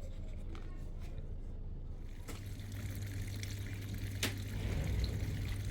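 Water trickling and pouring over a steady low hum, growing fuller a little past two seconds in, with one sharp click about four seconds in.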